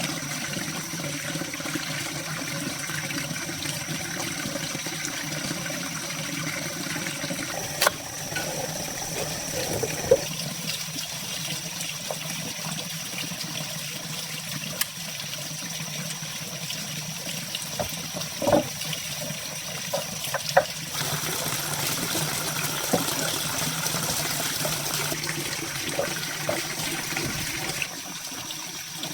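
Water running or pouring steadily, with a few sharp knocks.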